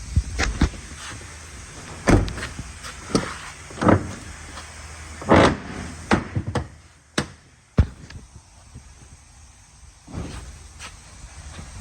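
A vehicle's doors and panels being opened and shut: an irregular series of about ten clunks and thumps over a steady hiss.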